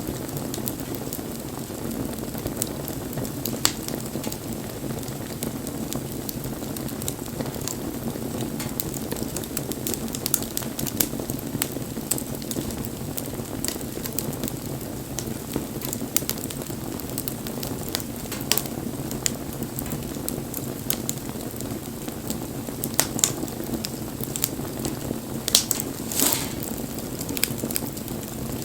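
Wood bonfire burning: a steady low rush of flame under irregular crackles and pops, with a cluster of louder pops near the end.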